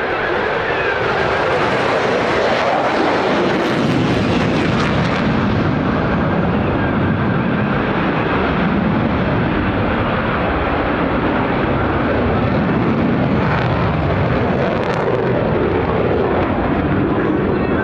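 Jet noise from a U.S. Air Force F-16 Fighting Falcon's single engine during a demonstration flight. It is a loud, steady rush that builds over the first second or so and then holds, with slowly sweeping tones as the jet moves across the sky.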